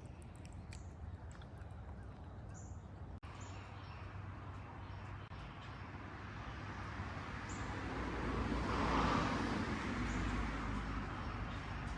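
Birds chirping now and then over a low outdoor rumble, while a vehicle passes, growing louder to a peak about three-quarters of the way through and then fading a little.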